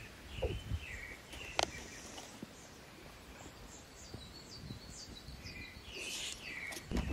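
Small birds chirping on and off, short high calls, with a single sharp click about a second and a half in and some handling rustle near the end.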